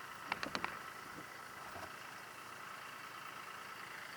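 A few quick clicks or taps about half a second in, over a steady mechanical hum like an idling engine.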